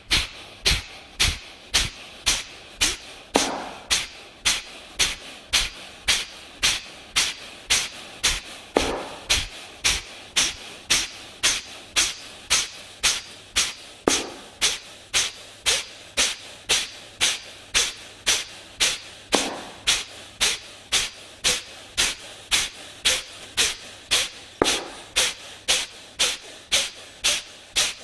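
Kapalabhati breathing: rapid, forceful exhalations pushed out through the nose by the belly, about two a second in an even rhythm, with a brief lower sound roughly every five seconds.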